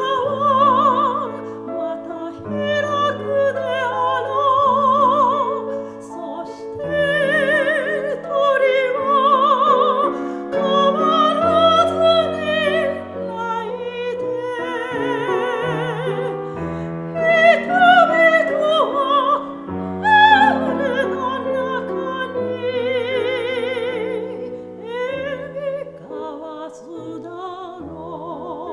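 Soprano singing a Japanese art song with wide vibrato, accompanied by piano; near the end the voice softens while the piano carries on.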